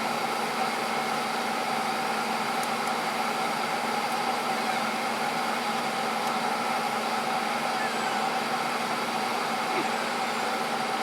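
Steady mechanical hum of a running machine, holding several steady tones without change.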